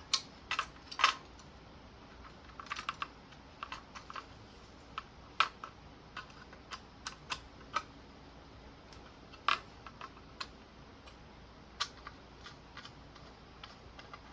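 Irregular sharp clicks and light clinks of small metal ceiling fan parts and hardware being handled during disassembly.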